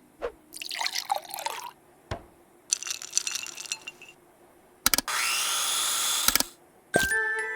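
Cartoon sound effects of preparing food: short clicks and two brief splashy liquid sounds, then about a second and a half of steady pouring with a rising tone, like a container filling. Music comes in near the end.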